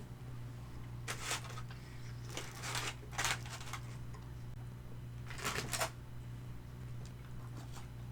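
Crunchy bites into crispy Korean fried chicken, heard as four short clusters of crackling, over a steady low hum.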